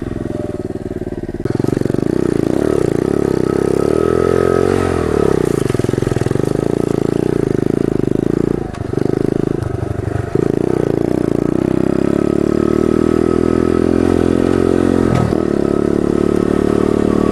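Pit bike engine running while riding on dirt, the engine note rising and falling with the throttle, briefly dropping twice about halfway through before holding steady.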